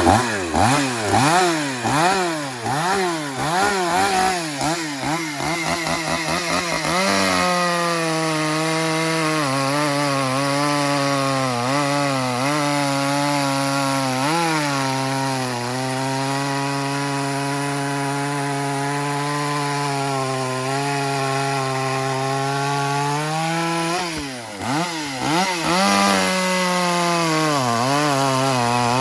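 Tanaka 5601 two-stroke 50cc chainsaw blipped up and down several times. About seven seconds in it holds steady at full throttle, pulled down under load as it cuts through a log. Around 24 seconds it comes off the cut and is revved up and down again, then settles back into a steady cut near the end.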